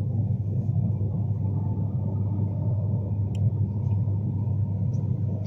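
Steady low rumble of a Class 390 Pendolino electric train running at speed, heard inside the passenger saloon, with a faint steady whine above it. A faint click about three seconds in.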